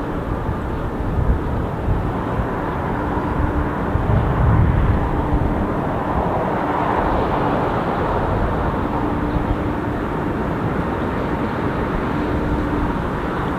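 Jet airliner engines running steadily during takeoff and climb, an even noise with a faint hum that comes and goes.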